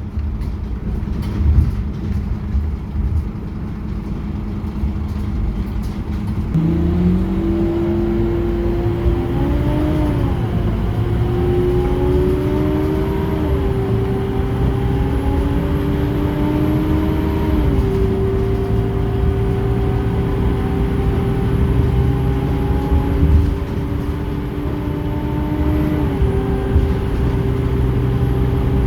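Scania K230UB Euro 4 bus engine and automatic gearbox under way. About six seconds in the engine note starts climbing and drops back with each of several upshifts, then holds steady under load and eases off near the end.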